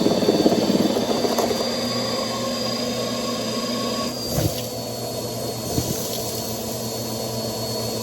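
Bissell PowerForce Helix upright vacuum cleaner running with a steady motor whine and rushing air, with two brief knocks about four and a half and six seconds in.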